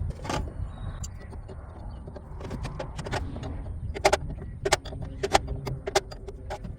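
Wrench and metal air-line fittings clinking as the fittings are turned off an old truck air dryer, with several short sharp clicks in the second half, over a steady low rumble.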